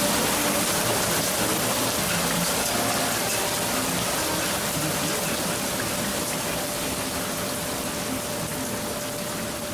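Heavy rain falling, a dense steady hiss that slowly grows quieter, with a faint steady hum under it.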